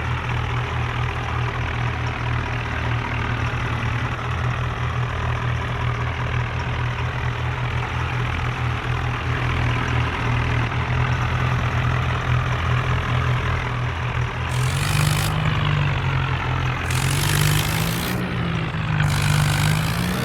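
Diesel tractor engines running hard under load. A steady low engine note holds for most of the time; in the last few seconds the engine pitch rises and falls, with three short bursts of hissing noise.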